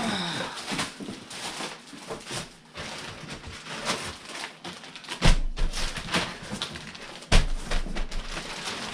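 Unboxing handling noise: rustling and clatter of packaging and parts being moved, with two heavy thumps about five and seven seconds in.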